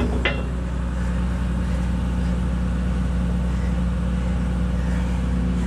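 Kobelco SK250 LC excavator's diesel engine running at a steady idle, with one short click or knock near the start.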